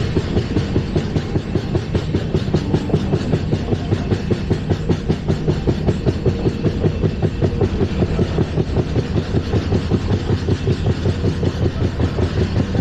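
LHB passenger coach running at speed on the track: a steady, rapid, rhythmic clatter of wheels and running gear, about seven beats a second, mostly deep in pitch.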